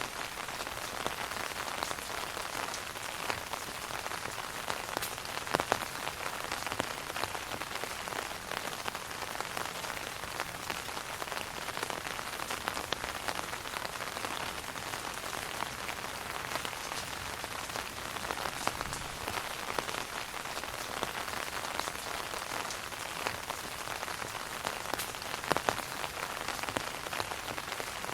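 Steady rain pattering on an umbrella overhead, a dense even patter with scattered louder drops, a couple of which stand out near the start and near the end.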